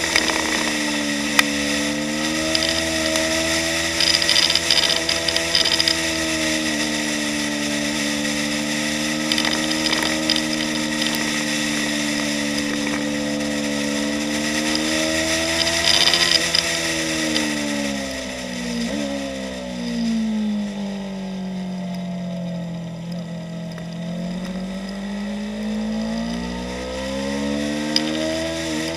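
Onboard sound of a 2015 Yamaha YZF-R3's parallel-twin engine running hard on track. The engine note holds high, falls about two-thirds through as the revs come down, dips and climbs again, then drops sharply near the end, like a gear change.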